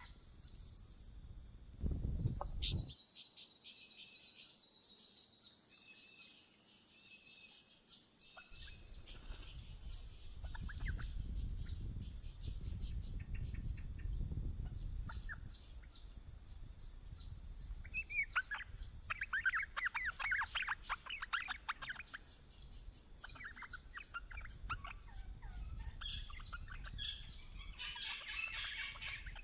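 Wild birds calling: a near-continuous chorus of short, high chirps, with a livelier run of quick, falling calls about two-thirds of the way through and again near the end.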